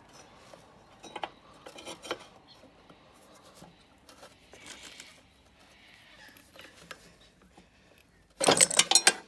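Adjustable spanner working a nut on a small engine: light metallic clicks and scrapes, then near the end a loud, rapid clatter of several sharp metal-on-metal strikes lasting under a second.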